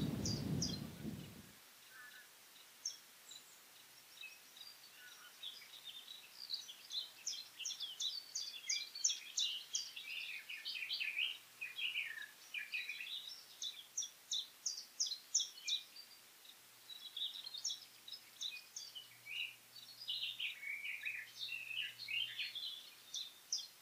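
Small birds singing: quick runs of short, high chirps and twitters in repeated phrases with brief pauses, busiest from about six seconds in.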